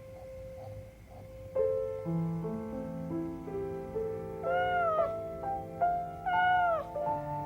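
A domestic cat meows twice, each call rising then falling in pitch, over gentle background piano music.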